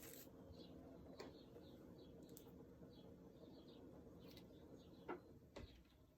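Near silence: faint room hum with small birds chirping faintly in the background. A few soft clicks stand out, the loudest about five seconds in.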